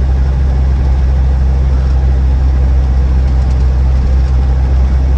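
Land Rover Defender 90 TD5's five-cylinder turbodiesel and road noise heard steadily inside the cabin while driving, a low drone with no knocks or clunks from the suspension or transmission.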